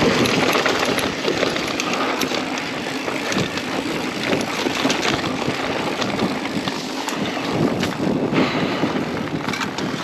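Mountain bike riding down a dirt trail: tyres rolling over the ground, with frequent clicks and rattles from the bike and wind buffeting the microphone.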